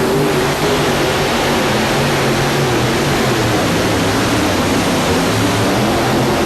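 7,200-pound modified pulling tractor with several Hemi-head engines at full throttle during a pull, a loud steady engine sound with no letup.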